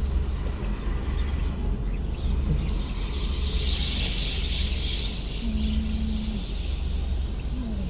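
Large flock of birds chattering together, swelling louder for a few seconds in the middle, over a steady low rumble of highway traffic.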